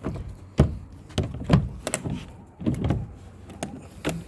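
Audio equipment rack being handled: a quick run of irregular knocks, clicks and clatter of hardware being moved.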